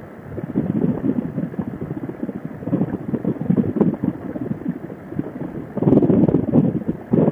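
Wind buffeting a motorcycle rider's helmet microphone at road speed: a rough rumbling rush that swells and fades, loudest about six seconds in.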